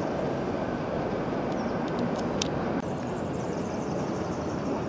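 Steady rumble and outdoor hiss of a distant electric suburban train approaching along the line. A few brief clicks come about halfway through, and the background noise changes abruptly just under three seconds in.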